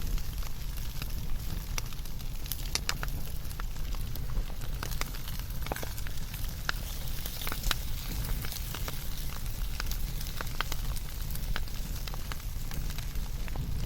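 Wood fire burning, with irregular sharp crackles and pops from the burning wood over a steady low rumble of the flames.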